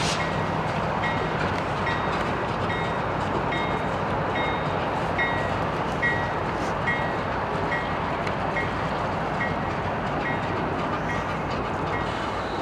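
A train rolling past with a steady rumble of wheels on rail. Over it a locomotive bell rings in evenly spaced strokes, a little more than once a second.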